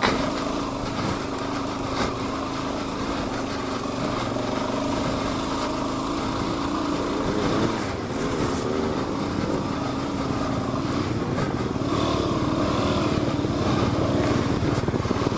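Suzuki DR-Z400 dual-sport motorcycle's single-cylinder engine running steadily at low revs. Its revs rise and fall a little around the middle and again near the end.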